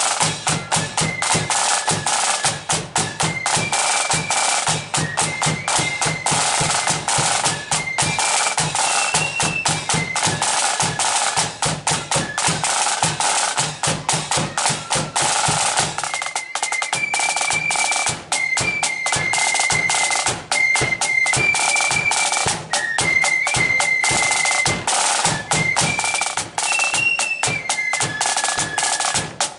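Marching flute band playing a tune: flutes carry a high, stepping melody over snare drums and a bass drum.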